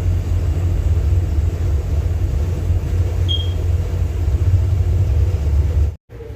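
Steady low rumble of a ship's engine heard on board, with a short high beep about three seconds in; the sound cuts off abruptly near the end.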